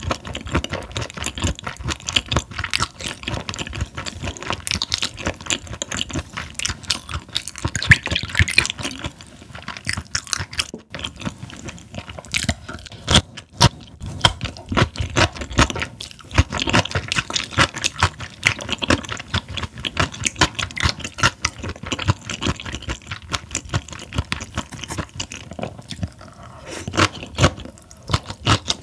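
Close-miked chewing with frequent crunching and many small wet clicks: a person eating raw Chinese herring sashimi.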